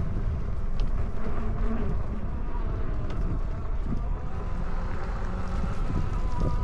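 Wind rumbling on the microphone while riding an e-bike, with a steady buzzing whine from the bike's hub motor over it.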